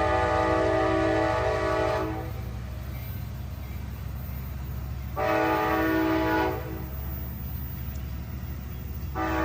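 Amtrak F59PHI diesel locomotive's air horn sounding a chord of several notes as the train departs: one blast cuts off about two seconds in, a shorter one comes around the middle, and a third starts near the end. A steady low diesel rumble runs underneath.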